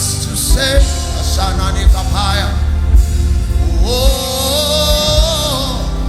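Gospel worship song performed live: a voice singing sustained, gliding phrases over a band with a steady bass and regular beat; one long held note begins about four seconds in.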